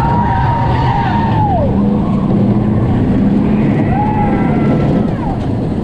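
Lightning Rod roller coaster running, heard from the back seat: steady rumble and rushing wind noise, with a steady low hum through the middle and two high, arching cries over it, one at the start and one about four seconds in.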